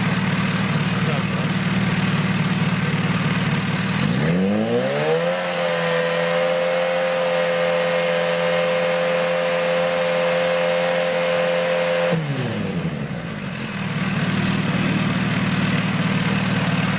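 Kawasaki H2 SX's supercharged inline-four running through an aftermarket exhaust: idling, then revved smoothly up at about four seconds and held at a steady high rpm for about eight seconds before dropping back to idle. This is the held-rev exhaust sound test used for a decibel reading.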